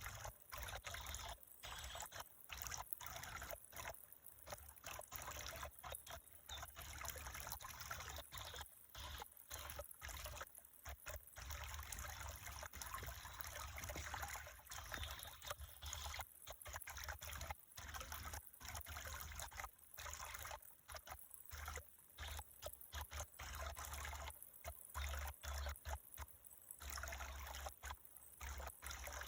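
Water trickling steadily, with a low rumble underneath; the sound drops out briefly many times.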